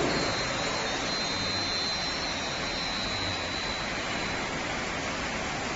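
5-axis CNC wood lathe running with a steady rushing noise and a high whine that falls slightly and fades about four seconds in.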